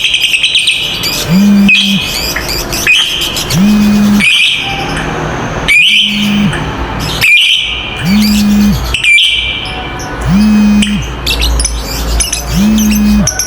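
Lovebirds giving their long, rapid, shrill chattering call (ngekek), in repeated bursts, with a short low tone recurring about every second and a half underneath.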